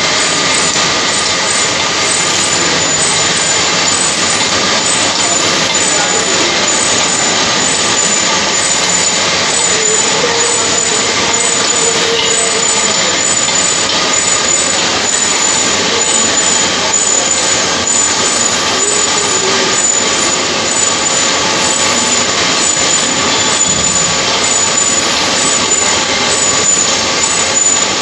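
Loud, steady machine-shop noise: a dense, unbroken hiss and hum of heavy industrial machinery running, with a few faint steady tones in it.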